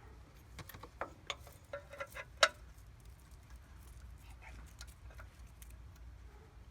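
Metal hand tools clinking and knocking, a quick run of sharp clicks, some with a brief metallic ring, the loudest about two and a half seconds in.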